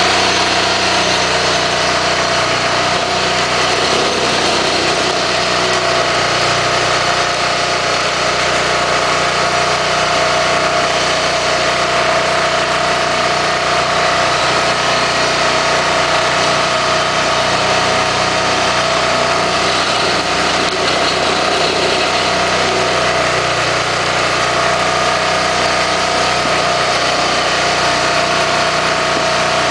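Diesel engine of a firewood log splitter running steadily at an even speed.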